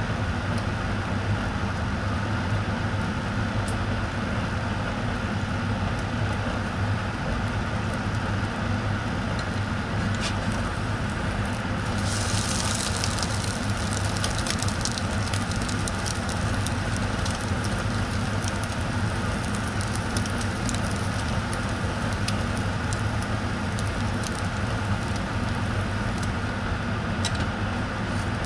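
Egg-coated sandwich sizzling and crackling in a hot nonstick frying pan, over a steady low hum. About twelve seconds in, the sizzle turns louder and brighter when the sandwich is turned onto its side with a spatula, and scattered crackles and spatula clicks go on.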